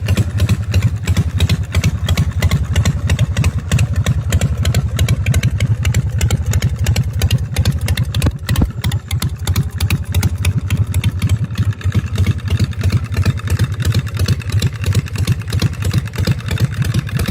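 2003 custom chopper's engine running steadily, with a fast, even beat of exhaust pulses.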